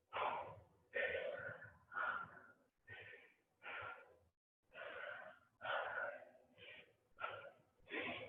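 A person breathing hard and rhythmically through a close microphone, a heavy, wheezy breath about once a second, from exertion during a pike-and-climber exercise.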